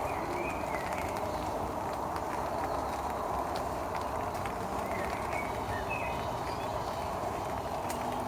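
A steady rushing noise, with a few short bird chirps near the start and again about five seconds in.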